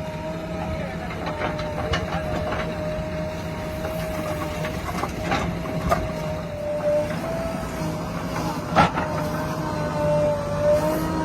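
Heavy diesel engine running steadily with a high, slightly wavering whine over it, a few light clicks, and one sharp knock about nine seconds in.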